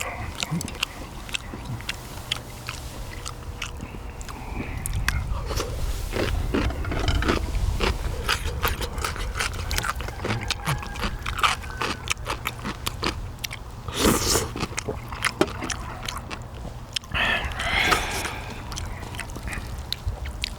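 Close-up eating sounds: chewing and gnawing meat off pork bones from potato-bone soup, with many small wet clicks and smacks. A steady low rumble runs underneath.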